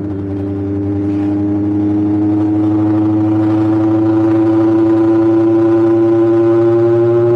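Superbike engine running under way, its pitch rising slowly and steadily as the revs climb.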